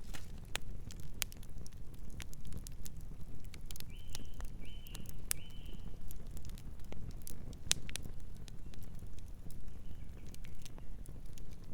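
Campfire burning: a steady low rumble with scattered sharp crackles and pops of burning wood. About four seconds in come three short high chirps.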